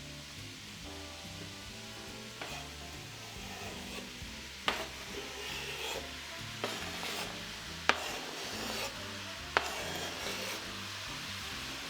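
Onions, celery and shallots sizzling steadily in olive oil in a pot, with stirring and four sharp knocks in the second half.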